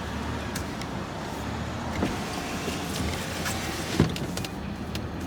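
A car running, a steady low hum with a few light clicks and one sharper knock about four seconds in.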